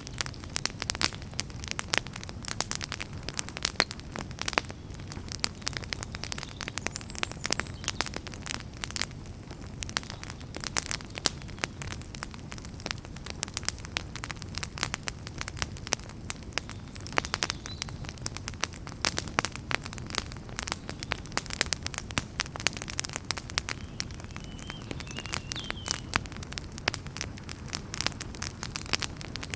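Wood campfire crackling: frequent sharp pops and snaps over a low, steady rumble of the burning fire.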